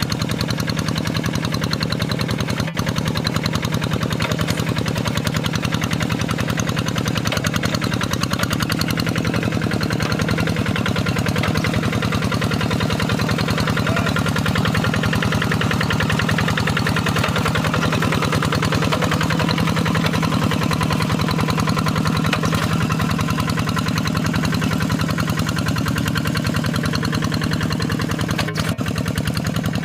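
Kubota RD85DI-2S single-cylinder diesel on a Quick G3000 hand tractor running steadily with a rapid, even chugging beat.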